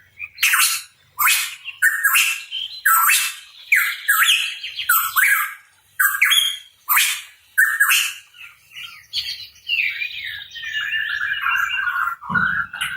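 Pitohui calling: a fast run of loud, harsh, sweeping notes, about two a second, then a longer, falling chatter near the end.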